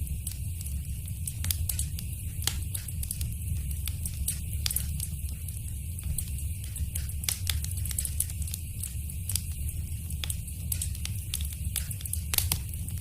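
Fire crackling in a fireplace: many small sharp pops and snaps over a steady low rumble, with one louder pop near the end.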